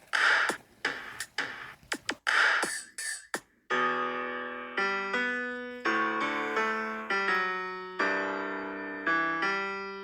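Solo piano music, single notes struck every half second to a second and left to ring and fade, starting abruptly about four seconds in. Before it, a run of short noisy bursts and clicks.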